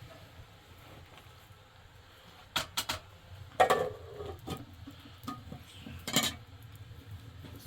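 Dishes and utensils clinking and clattering: a quiet start, then a handful of separate knocks and clinks, the loudest a clatter a little past the middle.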